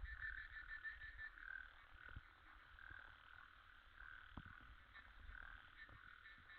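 Faint night chorus of frogs calling: a rapid pulsed trill for about the first second, then short calls repeating roughly twice a second.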